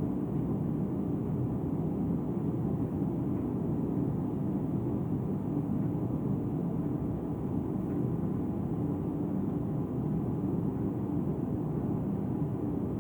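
Combination washer-dryer running its drying cycle: a steady low machine hum and rumble.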